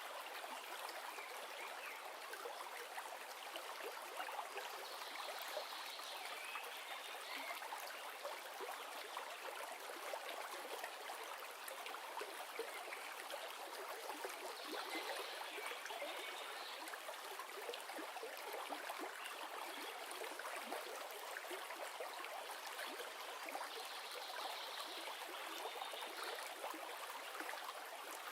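River water flowing and trickling, a steady rushing noise with no low rumble. A slightly brighter patch of sound comes back about every ten seconds.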